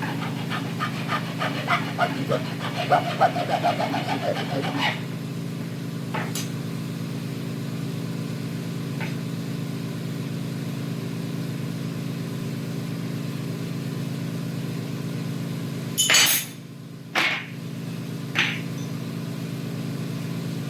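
Steady low hum of a running motor, with a rapid fluttering rattle over it for the first few seconds. About three quarters of the way through, a loud hissing burst briefly cuts the hum, and two shorter bursts follow.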